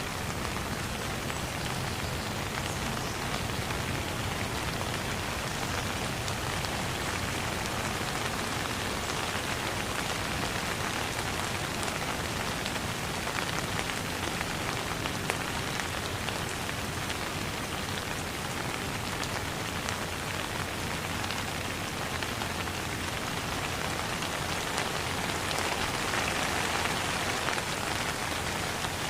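Steady rain falling on a surface, a dense even hiss with many small drops ticking through it.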